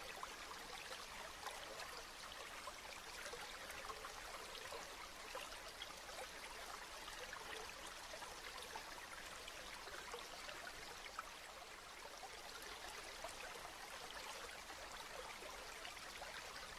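Steady rain, with many small drops pattering and ticking.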